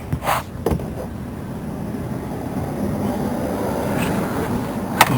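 Metal clinks of a small wrench on the starter's terminal, a couple near the start and a sharp one near the end, over a steady rumbling noise that slowly swells and eases.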